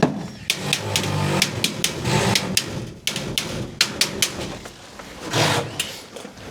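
Sheet-metal ductwork being handled and fitted: a busy run of sharp metallic clicks and knocks, with a brief scraping rush about five seconds in.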